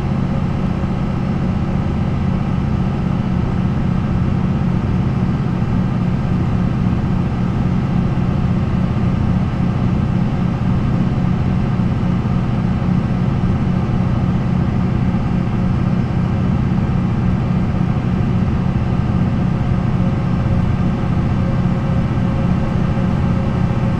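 The MAN NL 263 city bus's D28 diesel engine running steadily, a deep even drone with no change in speed.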